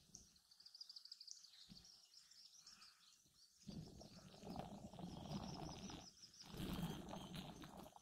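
Faint, rapid, high-pitched twittering of a small bird. About four seconds in, stretches of low rushing noise join it.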